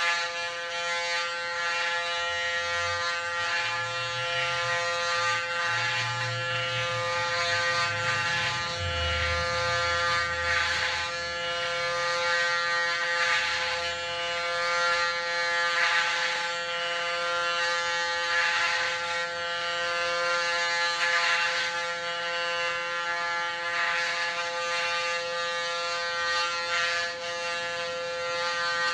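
Electric hair clipper set to 0.8 mm buzzing steadily while shaving a head down to a buzz cut. The buzz swells briefly every two or three seconds.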